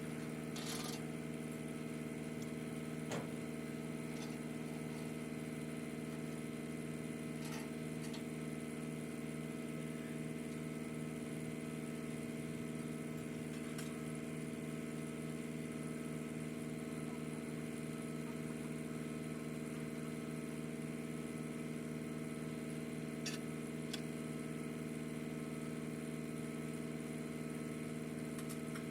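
An engine idling steadily at an even pitch, with a few faint clicks.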